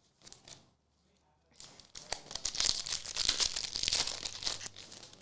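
A trading-card pack wrapper crinkling and tearing as it is opened: a few small ticks, then about three seconds of dense crackling.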